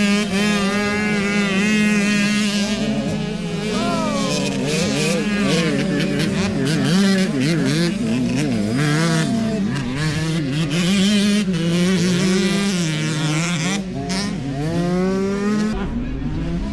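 Several motocross bike engines revving at once, their pitch rising and falling in overlapping sweeps as they accelerate and shift, over a steady low engine drone.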